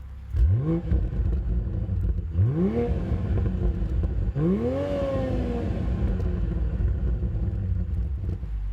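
Toyota GR Supra's engine and exhaust revved three times from idle in quick blips, the third held a little longer and falling back slowly, then settling to a steady idle.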